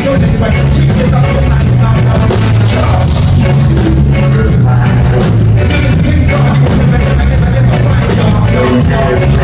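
A live band playing loud music, recorded from the audience, with a heavy bass line and a steady drum beat.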